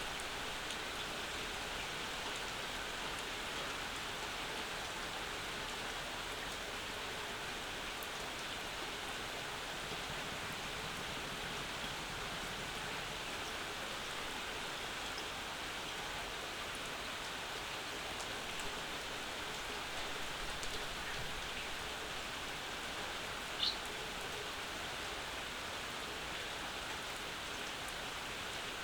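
Steady summer rain falling, an even hiss of rain with a few scattered drips. About three-quarters of the way through comes one short, sharp, high-pitched tick.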